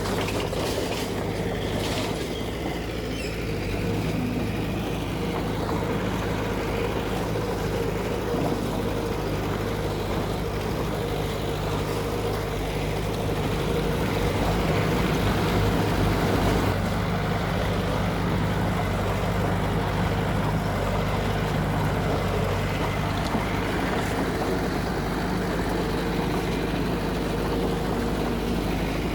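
Heavy diesel engine of construction machinery running steadily under load, briefly working harder about halfway through.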